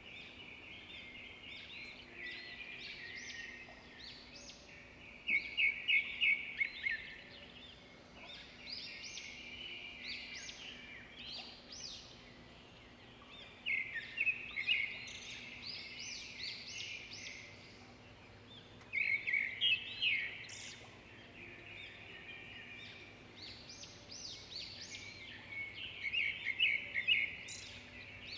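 A bird chirping and trilling in quick runs of high notes that come and go every few seconds, over a faint steady hum.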